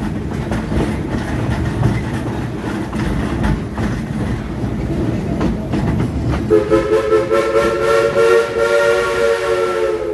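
A steam train rolling with a rumble and rail clatter. About six and a half seconds in, the steam locomotive's whistle sounds one long blast, a chord of several tones held steady.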